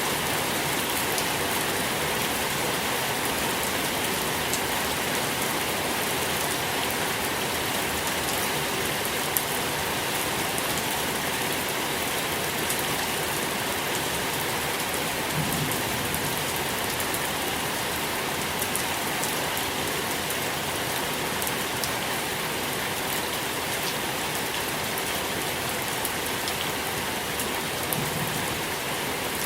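Steady rain falling on a surface, a dense even hiss with many small, distinct drop ticks.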